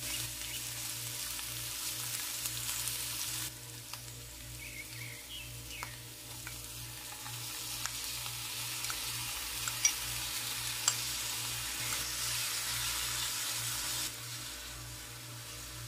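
Chopped garlic, green chillies and curry leaves sizzling in hot oil in a nonstick wok and being stirred with a wooden spatula. The sizzle falls away about three and a half seconds in and builds again once chopped onions are tipped in and stirred. A couple of sharp taps come a second apart, about ten seconds in, and the sizzle drops again near the end.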